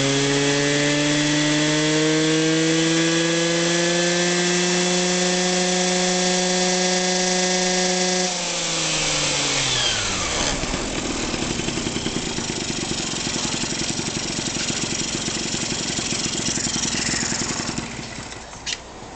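Small Yamaha 1YT Excel 14T engine held at high revs, then dropping back to a fast, rattly idle about eight seconds in. It is shut off near the end, followed by a single click.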